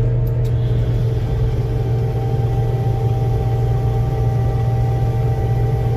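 Combine harvester running steadily while cutting soybeans, heard from inside the cab: a constant low hum with a few steady higher tones.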